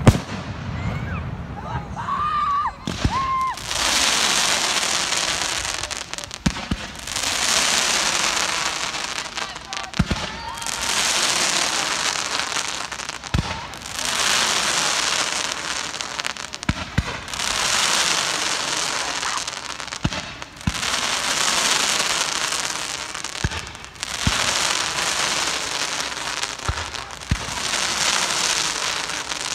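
Fireworks display: a bang about every three and a half seconds, each followed by a few seconds of loud crackling, with a short whistle near the start.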